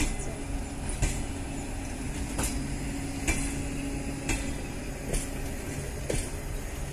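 Passenger railway coaches rolling past at close range: a steady rumble of wheels on rail, with a sharp clack of the wheels about once a second.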